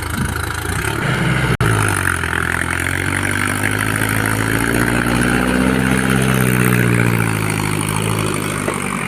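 Tractor diesel engine running hard under load, its pitch rising a little and then sinking over several seconds, with a momentary break in the sound about a second and a half in.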